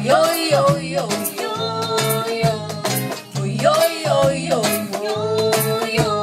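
Acoustic Latin cumbia band playing an instrumental passage: charango and guitar melody over a steady bass, with hand percussion (bongó, cajón, shakers) keeping a regular beat.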